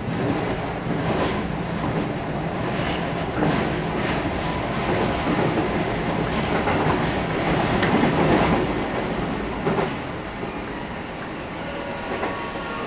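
Keihan electric commuter train running, heard from inside the car: a steady rumble of wheels on rail with scattered clacks as the wheels cross rail joints. Faint steady whining tones come in near the end.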